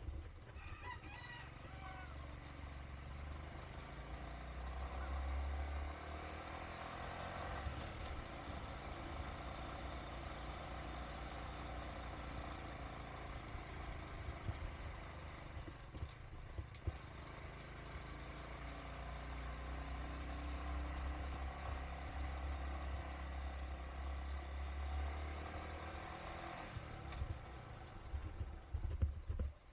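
Motor vehicle engine running on the move, its pitch rising and falling as it speeds up and slows down, over a steady low rumble.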